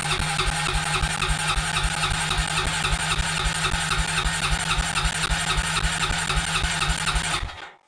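2000 Honda Rancher ES ATV's single-cylinder engine cranked on the electric starter in the cold with choke on, chugging in an even rhythm without catching, until the starter is released about seven and a half seconds in. A failed cold start after six weeks of sitting.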